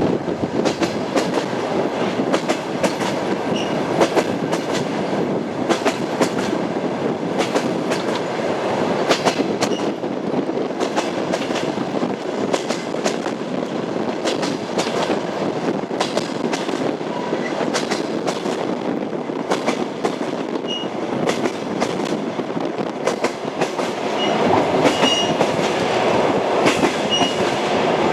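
Passenger train wheels clacking over the rail joints of jointed track, over a steady rolling rumble. The clacks come irregularly, and the running gets louder over the last few seconds.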